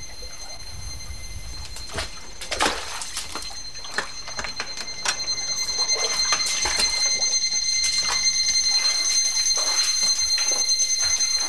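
A steady high-pitched electronic tone, like an alarm, sounding without a break and stopping suddenly at the end, over irregular clicks and knocks that grow louder and busier in the second half.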